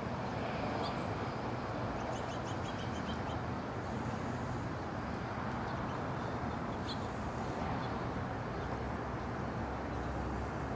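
Faint bird chirps over a steady rushing background noise: a quick run of short high notes about two seconds in, and a single call near seven seconds.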